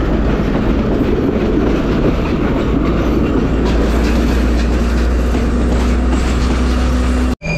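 A passenger train running along the track, heard from on board: a steady loud rumble of wheels and carriage with faint clicking over the rail joints. The sound cuts out abruptly near the end.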